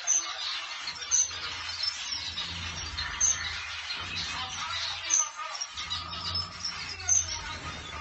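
Zebra finches chirping and chattering, with short sharp high calls recurring every couple of seconds.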